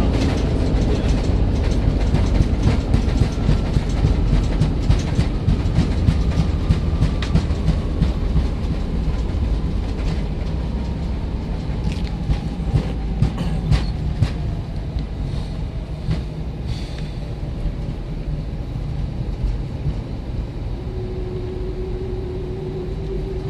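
Airbus A319 heard from inside the front of the cabin rolling on the ground after landing: a heavy low rumble of the landing gear with a run of quick knocks as the wheels go over runway joints and lights. A faint engine whine falls slowly in pitch and the rumble eases as the aircraft slows, and a steady hum sets in near the end.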